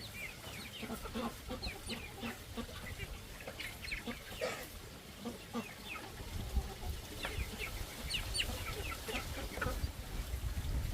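Chickens clucking and cheeping, many short scattered calls overlapping, over a low rumble.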